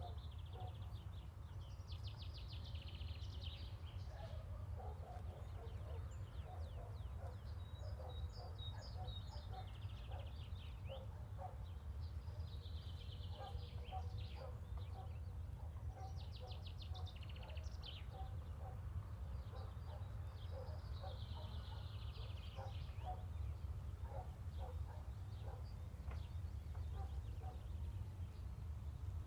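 Birds singing in the background: rapid high trilled phrases repeated every few seconds over a steady low rumble, with faint scattered ticks.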